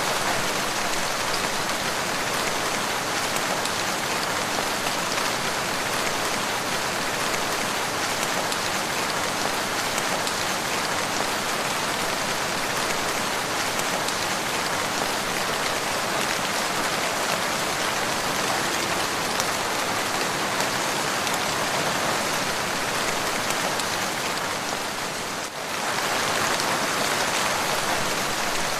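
Steady rain: an even hiss of many drops, with a brief dip in level near the end.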